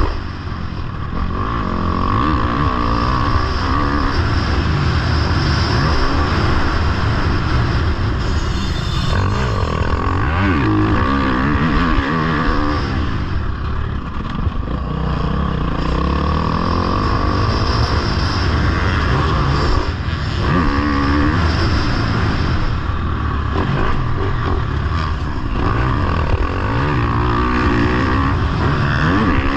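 Motocross bike engine at speed, its pitch climbing and dropping over and over as the throttle is opened and shut, over a steady rush of noise.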